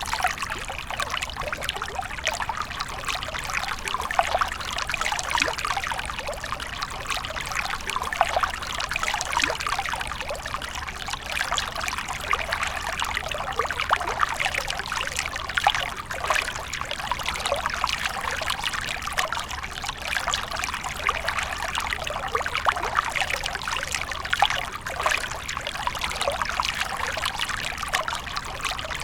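Stream water running and trickling over rocks: a steady babble with many small splashes and no pauses.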